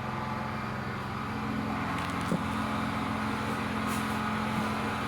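A motor's steady low hum, with a faint knock about two seconds in.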